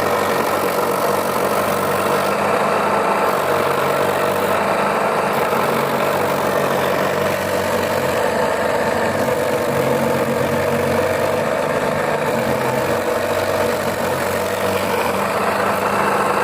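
Mini sago grating machine running steadily, its motor giving a constant mechanical hum.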